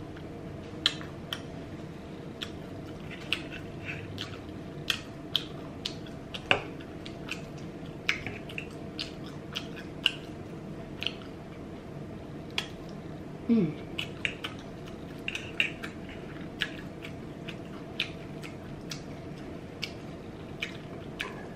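Close-miked chewing and wet mouth sounds while eating naan with curry and spoonfuls of biryani rice: sharp lip smacks and mouth clicks scattered irregularly. There is one short hummed 'mmm' past the middle.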